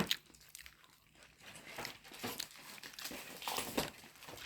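Paper food wrapper crinkling and rustling in short bursts, with some crunching of food being eaten.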